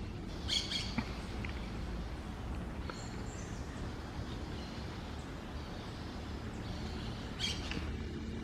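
Short bird chirps: a brief burst of high calls about half a second in, fainter calls around three seconds, and another burst near the end, over a steady low background rumble.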